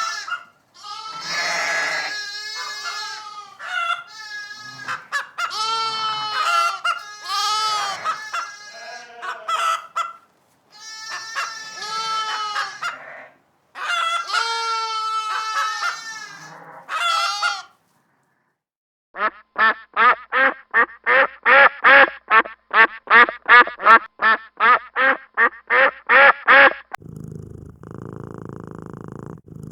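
A run of animal sounds. First, birds give pitched calls that swoop up and down in pitch, in bursts. After a short pause comes a fast, even series of about twenty short calls, roughly three a second. Near the end, a low steady cat purr begins.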